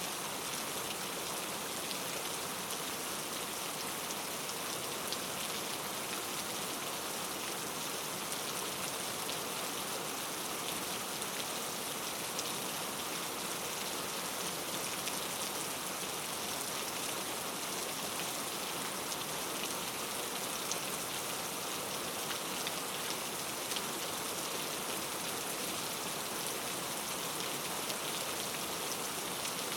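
Steady rain falling, with many small drop ticks on a hard surface.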